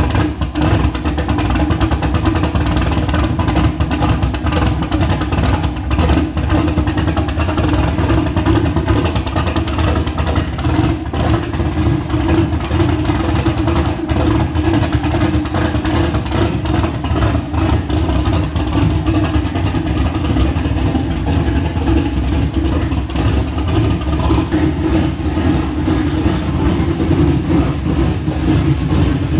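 Car engine running with road noise, heard from inside a moving car: a steady low rumble that does not let up.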